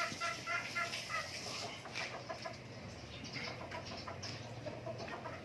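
Native chickens clucking: a quick run of short, evenly repeated calls in the first second, then scattered calls and clicks.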